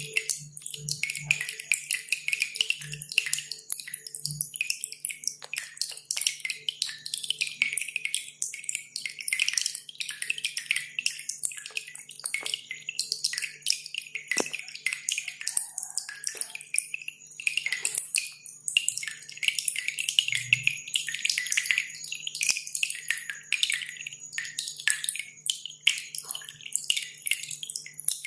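Cililin songbird singing a fast, dense run of sharp, high chirps and clicks without a break, over the sound of dripping water.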